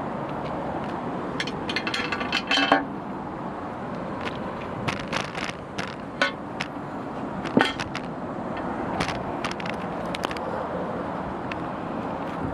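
Takisawa TSL-550 engine lathe running with a steady mechanical drone, broken by sharp clicks and a short metallic rattle about two seconds in, and single clicks around six and seven and a half seconds in.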